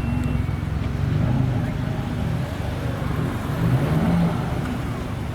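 Car engine running with a deep, steady sound and a few slight swells in level, typical of a modified Japanese sports car.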